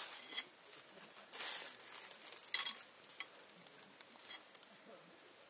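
Food frying in a pan, sizzling in uneven bursts, with a few light metal clinks.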